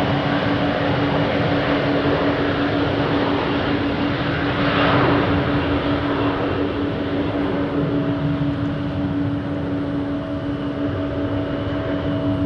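Airliner jet engines running, a dense rush with a steady low hum, swelling briefly about five seconds in.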